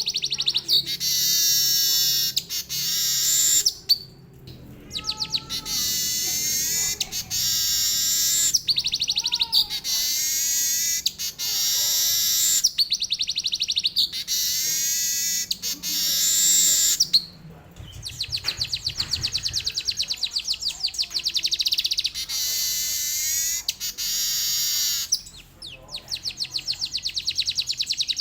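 Weaver bird (manyar) singing continuously in long phrases of rapid trills and sweeping notes, broken by a few short pauses. The song carries canary-like material the bird has learned.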